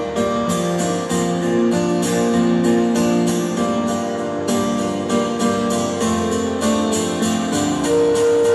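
Live band playing an instrumental passage, with guitar and keyboard over a steady beat and no singing.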